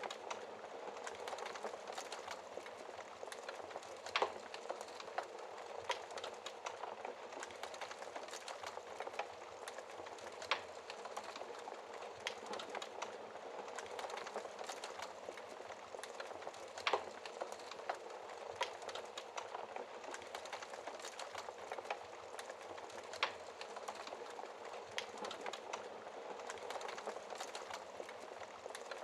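Fireplace fire crackling steadily with many small snaps, and four sharper pops spread through.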